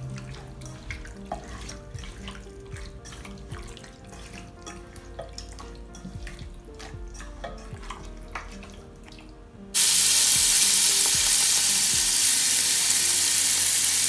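Soft background music over faint squelching of marinated chicken being mixed by hand with curd in a pot. About ten seconds in it cuts suddenly to chicken pieces deep-frying in hot oil, a loud steady sizzle.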